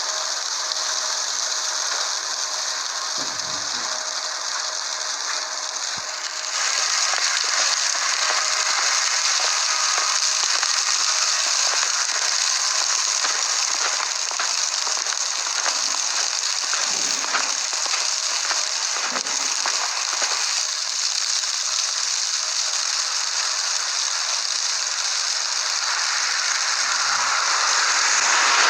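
Falling snow or sleet hitting surfaces close to the microphone, a steady dense hiss full of fine crackling ticks. It grows louder about six seconds in.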